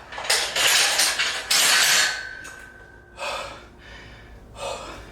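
A person breathing hard after a set of lifting, with a long, forceful breath in the first two seconds and shorter heavy breaths near the middle and end.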